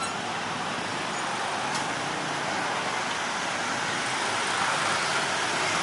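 Steady rushing vehicle noise that swells slightly about four seconds in.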